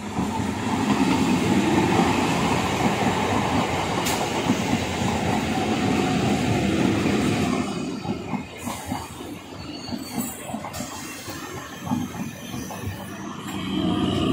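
EMU electric local train passing close by at speed: a loud, dense rush of motor and wheel noise as the leading cars go by, then a rhythmic clatter of wheels over the rail joints as the coaches pass, swelling again near the end.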